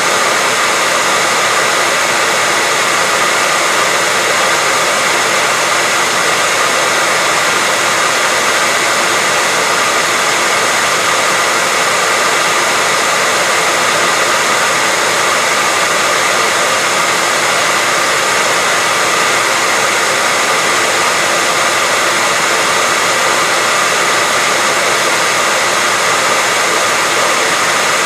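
Hair dryer running steadily: a continuous rush of blown air, with a faint steady whine from the motor.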